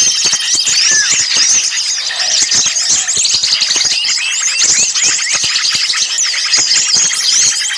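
A bird-lure recording of many small songbirds calling at once: a dense, high-pitched racket of overlapping chirps, whistles and sweeping notes. These are agitated, noisy calls meant to draw birds in.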